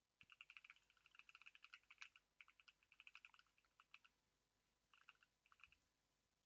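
Faint typing on a computer keyboard: quick runs of keystrokes for about four seconds, then a pause and two short bursts near the end.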